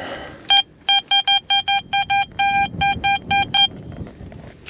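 Garrett Vortex VX9 metal detector giving a quick run of about fourteen short beeps at one steady pitch, one held a little longer, as the coil sweeps over a buried target.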